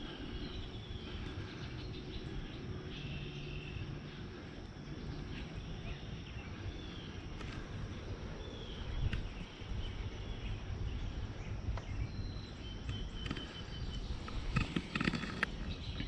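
Outdoor wetland ambience of birds calling: scattered short, high chirps and peeps over a steady low rumble, with a denser, louder cluster of calls near the end.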